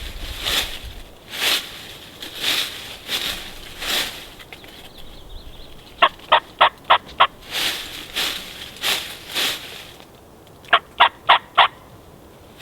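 Gould's wild turkeys calling: a string of short, airy calls repeating about every half to one second, with a quick run of five sharp yelping notes about six seconds in and four more near the end.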